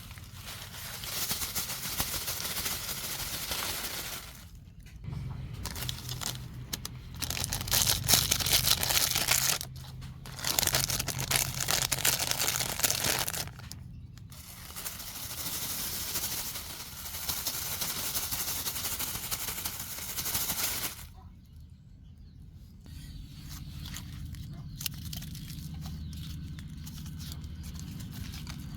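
Plastic bags and other litter crinkling and rustling as trash is collected, in several bouts of a few seconds each with short breaks between, quieter over the last several seconds.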